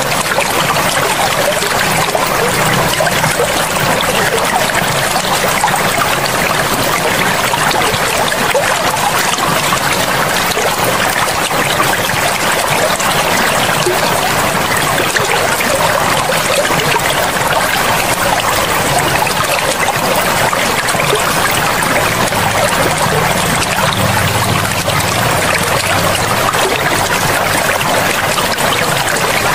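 River water flowing steadily over stones, a continuous rushing and splashing.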